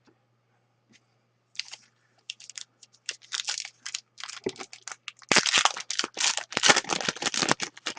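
Foil card-pack wrapper crinkling and tearing as a trading card pack is opened, a dense run of sharp crackles that starts about a second and a half in and is loudest in the second half.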